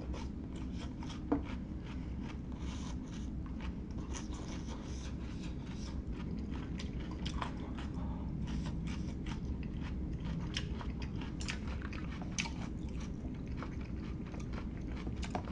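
Close-miked chewing and biting of food, with many small irregular mouth clicks and crunches over a steady low hum.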